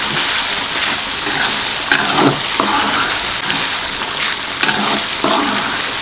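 Red-chili spice paste frying and sizzling in hot oil in a pan while it is stirred. A few short scrapes of the spatula against the pan come about two seconds in and again near five seconds.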